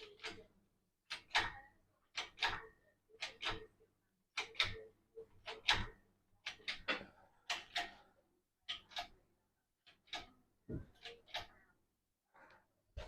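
Sharp metallic clicks and knocks from hand tools working on the car, coming about once a second, often as quick double strikes.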